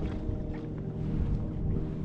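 A boat's motor running with a steady hum, with some wind rumble on the microphone.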